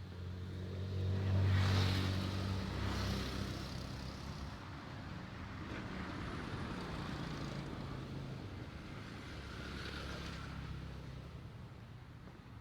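Motor vehicles passing on a road: an engine hum and tyre noise swell up and pass in the first few seconds, and a second vehicle goes by near the end.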